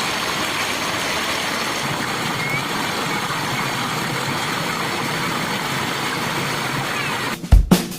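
Steady rushing of a waterfall, an even hiss of falling water. About seven and a half seconds in, it breaks off and loud rock music cuts in.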